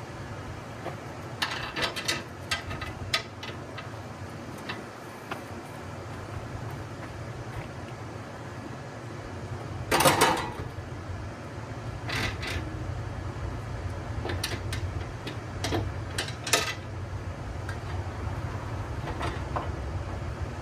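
Scattered knocks and clatters of parts and tools being handled, with one louder clattering impact about halfway through, over a steady low hum.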